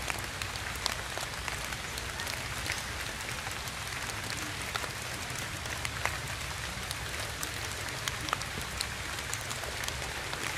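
Steady rain falling, with scattered sharp ticks of individual raindrops.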